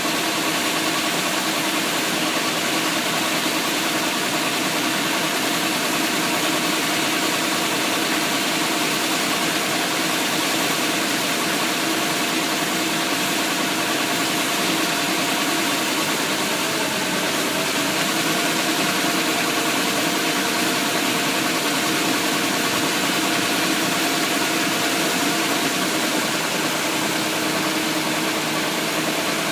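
Engine of a Thai e-taen farm truck running steadily at an even pitch and level.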